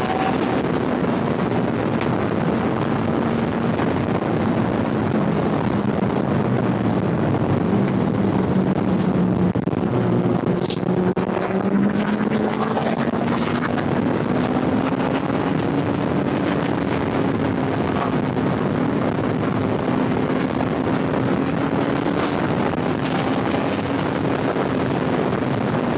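Kawasaki Ninja ZX-10R's inline-four engine running at a steady, fairly constant speed, its pitch sagging a little about a third of the way through and slowly climbing back, under a heavy rush of wind over the microphone.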